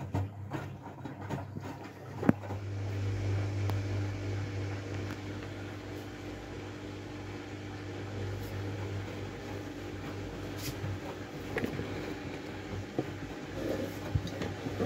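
Miele W433S front-loading washing machine running, a steady motor hum with scattered knocks and clicks from the drum and its load of stuffed toys and pillows. About eleven seconds in the low hum stops and a higher hum carries on.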